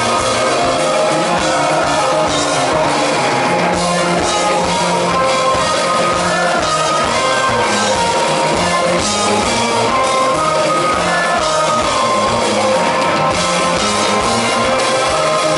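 Live rock band playing loud, with electric guitar, drum kit and some singing, as recorded from the audience.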